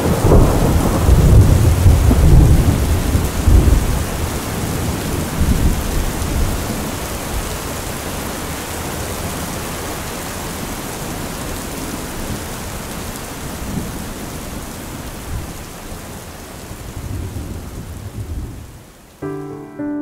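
Thunderstorm sound effect: a heavy rumble of thunder in the first few seconds over steady rain, the rain slowly fading and cutting off near the end as soft piano music begins.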